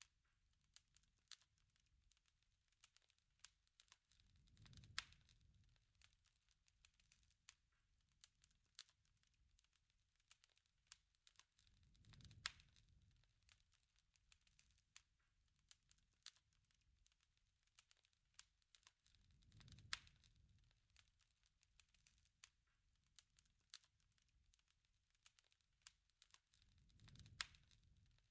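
Faint crackling campfire: scattered sharp pops and snaps, with a low soft rush of flame that swells and fades about every seven and a half seconds.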